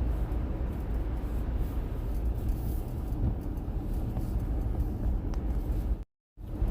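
Steady low rumble of a car driving, road and engine noise heard from inside. The sound cuts out completely for a moment near the end.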